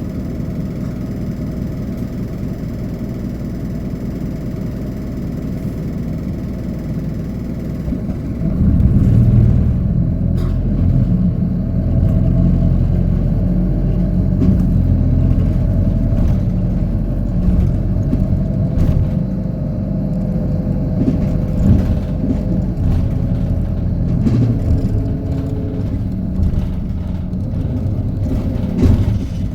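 Hino Poncho small bus's diesel engine heard from inside the cabin, idling steadily; about eight seconds in it gets louder and deeper as the bus pulls away, then keeps running under way with occasional knocks and rattles.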